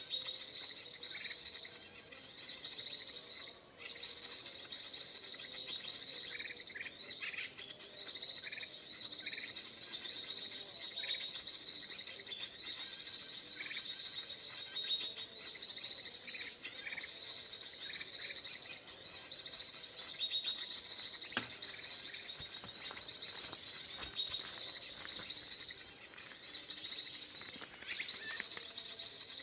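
Recorded song of the kutilang emas, a bulbul, played on a loop through a speaker as a trapping lure. The same bright, high phrase repeats about every second and a half, with a few shorter chirps in between.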